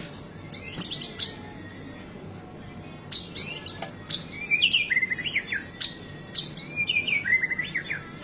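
White-rumped shama (murai batu) singing in three bursts of fast, varied phrases, sharp whistled notes and quick sweeps, with mimicked calls of other birds woven in.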